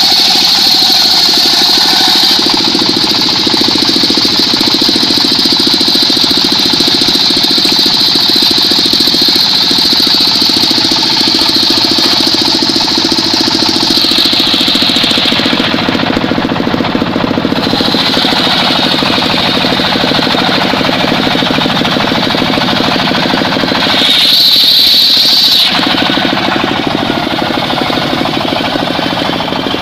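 Engine-driven circular saw cutting mahogany: a loud high whine from the blade over the steady chug of the engine. About halfway through the whine drops in pitch and fades, then flares up again for a couple of seconds near the end.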